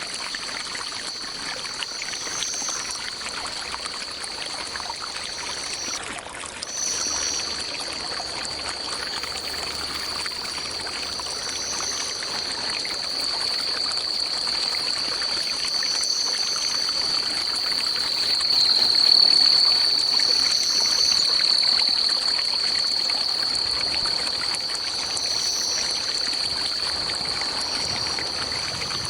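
Running water of a forest stream under a continuous high-pitched insect drone, which breaks off briefly about six seconds in. A second, higher insect call swells and fades every few seconds.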